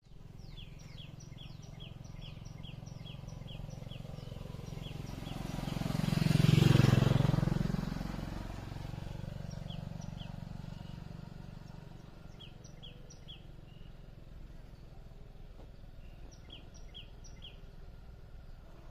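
A small bird chirping in quick runs of short, falling notes, with a steady low hum of traffic beneath. A motor vehicle passes, swelling to the loudest point about seven seconds in and then fading.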